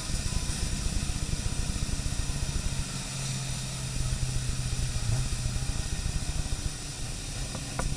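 Car driving on a wet track, heard from inside the cabin: the steady hiss of tyres throwing up water under the rumble of the engine, whose note steadies into a held tone through the middle.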